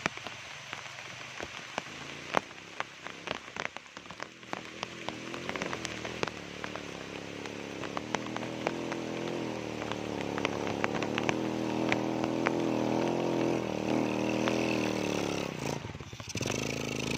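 Motorcycle engine labouring up a steep dirt climb. It rises slowly in pitch and loudness through the second half, drops off briefly near the end, then picks up again. Sharp, irregular clicks and crackles are thick in the first half.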